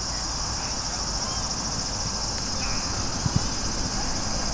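Steady high-pitched chorus of insects trilling, with a low rumble underneath and a couple of soft thumps about three seconds in.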